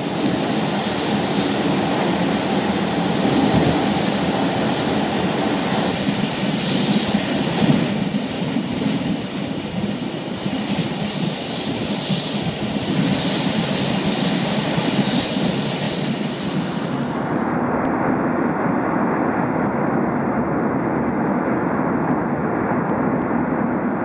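Steady rumble and rushing noise of an E5 series Shinkansen travelling at speed, heard from inside the passenger cabin. The high hiss drops away about two thirds of the way through while the low rumble carries on.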